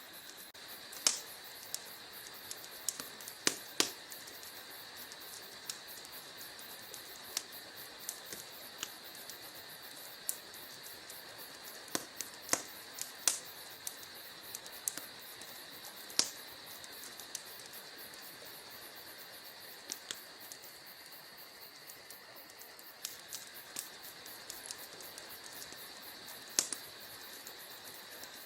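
Wood fire in a fireplace crackling, with irregular sharp pops and snaps over a steady high hiss.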